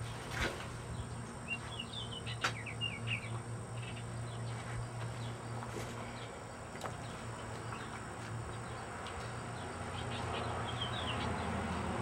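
Bird chirping in two short quick runs of chirps, the second near the end, over a steady low hum.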